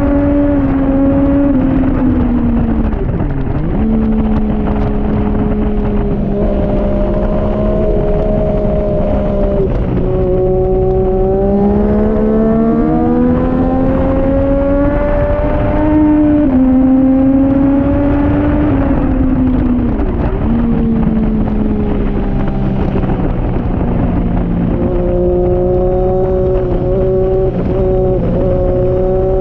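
2014 Triumph Daytona 675R's three-cylinder engine under hard riding. Its note climbs as it accelerates and drops sharply at each gear change, with a few brief dips when the throttle is shut.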